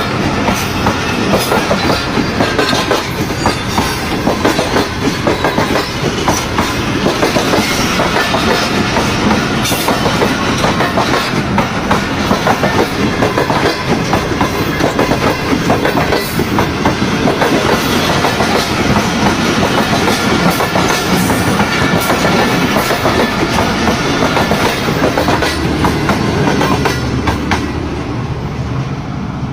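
Pakistan Railways 26 Down Bahauddin passenger train running on the track, its wheels clacking steadily over the rail joints. It is loud throughout and dies down a little near the end.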